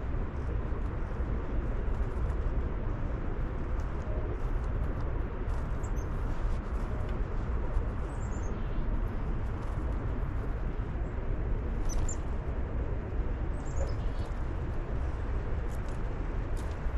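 Small birds chirping faintly and sparsely, with a few quick high notes that fall in pitch, over a steady low rumbling noise that is the loudest sound throughout.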